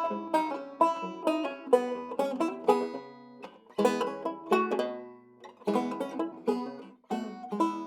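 Circa 1923 Weymann Keystone State guitar banjo playing a classic-style ragtime tune: quick plucked notes that ring briefly, with short lulls in the line about three and five seconds in.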